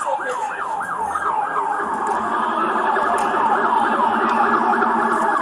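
Emergency vehicle siren on a fast yelp, its pitch sweeping up and down about three times a second.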